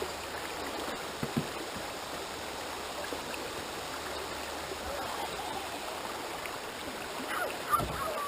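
River water rushing steadily past a shallow stretch, with a couple of short knocks, one about a second in and a louder one near the end.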